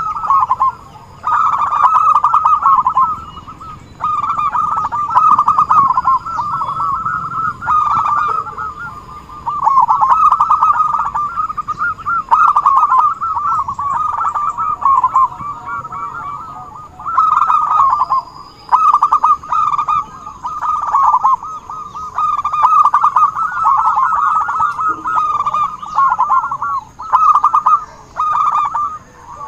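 Zebra doves (perkutut) calling in full song: rolling, rapid coo phrases a second or two long, one after another with short gaps and at times overlapping. The kind of calling played as a lure to draw wild zebra doves.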